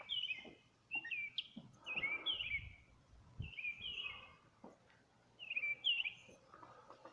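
A songbird singing short phrases of quick chirps, repeated about once a second with brief gaps.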